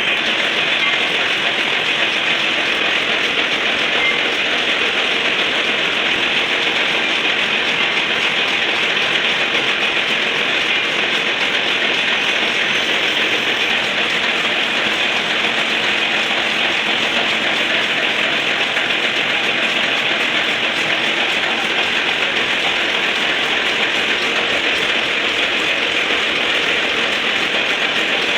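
Lathe running with a loud, steady, unbroken mechanical noise.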